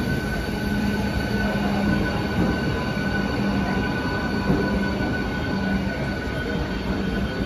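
Mumbai suburban EMU local train running past the platform as it pulls out, wheels rumbling on the rails with a steady high-pitched squeal over a low hum.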